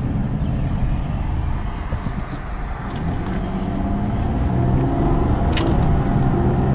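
A car driving, with a steady low rumble of engine and road noise. It eases off about two seconds in and then builds again, and a sharp click comes near the end.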